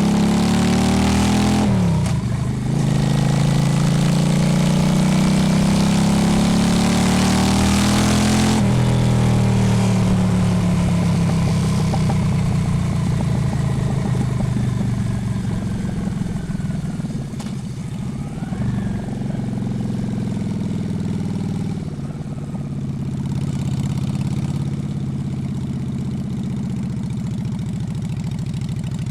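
Honda Shadow V-twin motorcycle engine under way. The revs drop about two seconds in, climb steadily for several seconds with a rush of wind, drop sharply near nine seconds, then fall away slowly and settle into a steady low run.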